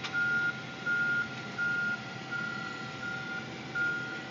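Forklift reversing alarm beeping in one steady high tone, about one beep every three-quarters of a second, as the forklift backs up in reverse.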